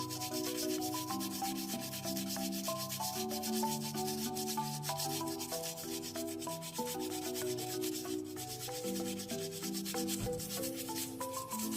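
Steady, rapid scrubbing or rubbing, over background music with a stepping melody.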